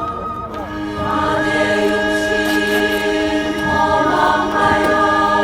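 A group of voices chanting a Korean funeral bier song (sangyeo sori) together, holding long drawn-out notes.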